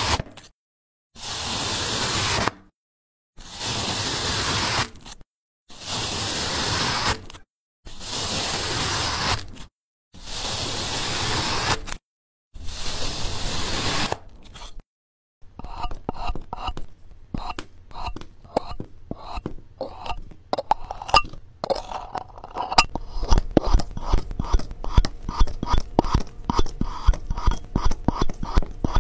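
Slime being played with close to the microphone. First comes a series of about seven short hissing, squelching bursts with brief silences between them, then a long run of rapid crackling and popping clicks that grows denser and louder in the second half.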